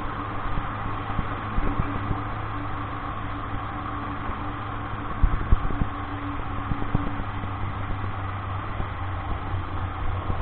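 Vehicle engine running steadily on the move, under a constant hiss of road noise, with a couple of bumps about five seconds in.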